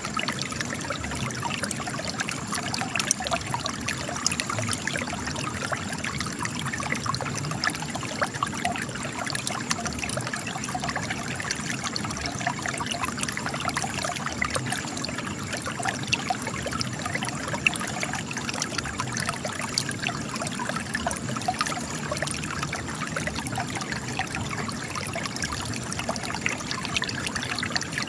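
Spring water gushing and trickling from cracks in rocks, a steady splashing with many small drips and spatters.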